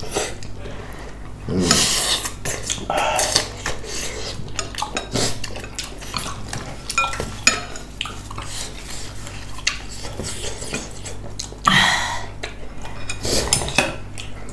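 Eating utensils clinking and scraping against bowls and dishes many times at an uneven pace during a meal, with a louder noisy stretch about two seconds in and again near the end.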